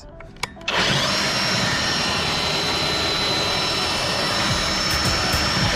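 Kobalt 24-volt cordless belt sander switched on about a second in, spinning up to a steady high whine over a loud hiss, then winding down near the end.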